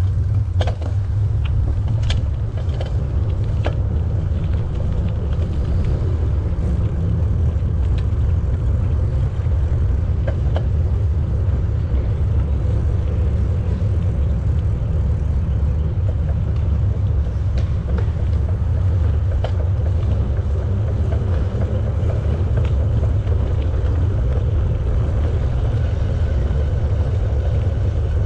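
Steady wind rumble on the microphone of a camera riding along on a moving bicycle, mixed with tyre noise on the path, with a few faint ticks near the start.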